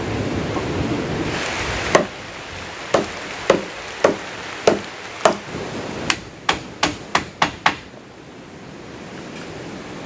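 About a dozen sharp blows of a tool striking wood, after a couple of seconds of rustling; the blows come faster toward the end, then stop.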